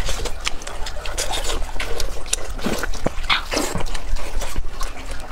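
Close-up wet chewing and lip-smacking of a mouthful of fatty pork, a steady run of sticky clicks and smacks.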